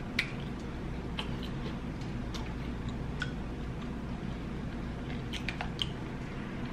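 Close-miked chewing with the mouth closed: soft, scattered mouth clicks over a steady low background hum.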